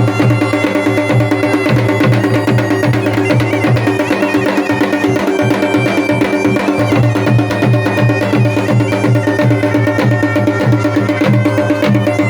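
Pahari folk band music: a mashak been (Himalayan bagpipe) plays a melody over its steady drone, while dhol and damau drums keep up a quick, even beat.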